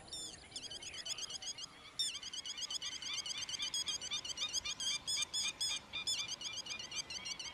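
Birds chattering: a rapid run of short, high chirps that grows louder about two seconds in.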